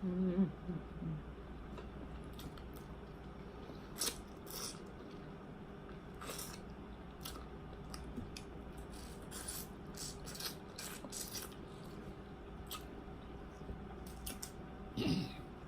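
Close-miked eating: scattered sharp clicks and smacks of chewing, with a short murmur just at the start and again near the end.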